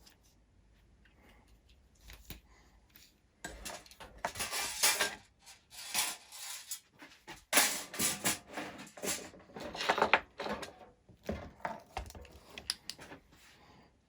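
Irregular clicks and clatter of a Tarot hexacopter frame being handled, starting a few seconds in, as its folding arm is retracted and the frame turned over.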